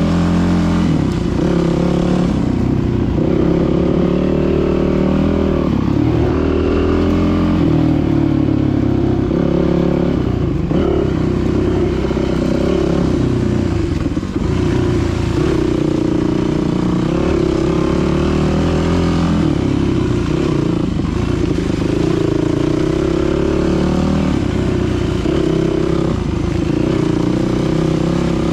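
Dirt bike engine running as it is ridden, its pitch rising and falling over and over with throttle and gear changes.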